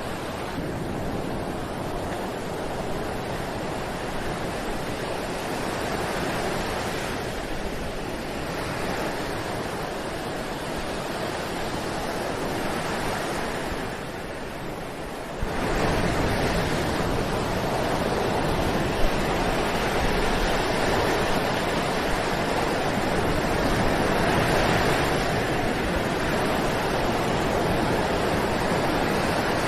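Ocean waves breaking on a beach: a continuous rushing wash that swells and fades every several seconds. About halfway through it dips briefly, then comes back suddenly louder and fuller.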